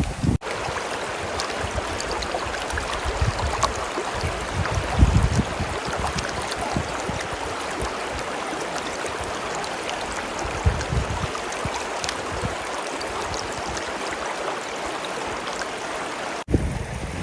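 River water flowing steadily, an even rushing sound, with a few low rumbles from wind on the microphone.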